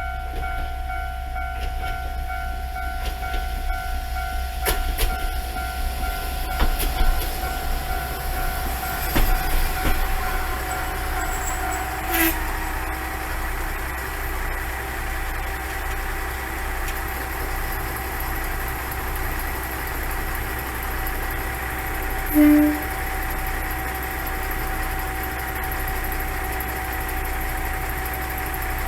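Nagaragawa Railway diesel railcar running steadily at the station, its engine hum and several steady tones holding throughout. A few sharp clicks and clanks come in the first half, and one short, loud tone sounds about two-thirds of the way in.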